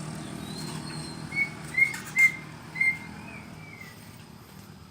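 A pet songbird whistling a run of short, clear notes, about five of them in quick succession, then falling quiet.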